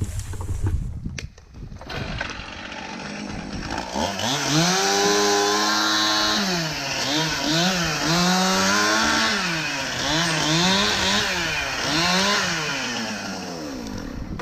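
Gas chainsaw running up to high revs a few seconds in, then revved up and down repeatedly before it drops away near the end.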